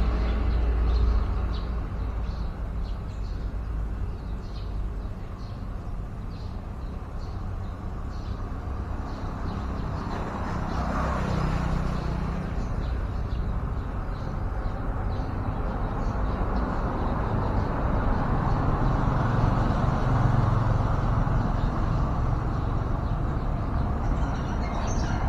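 Road traffic rumbling steadily, swelling as vehicles pass, once about ten seconds in and again in the second half. Faint short bird chirps sound over it.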